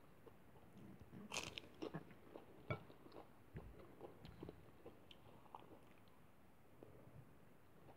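Faint close-up chewing and crunching of raw lettuce, with scattered wet crackles and clicks; the sharpest crunch comes about a second and a half in, with a few more in the next second or so.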